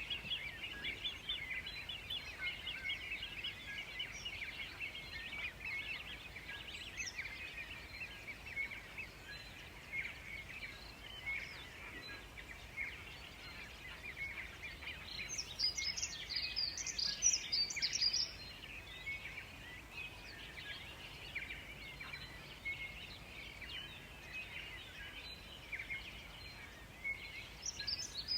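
Forest birds chirping, with many short calls throughout; a louder, higher song phrase rings out for about three seconds past the middle, and another begins near the end.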